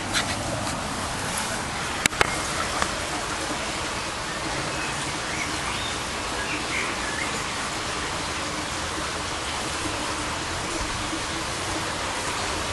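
Steady hiss of background noise, with two sharp clicks about two seconds in and a few faint chirps near the middle.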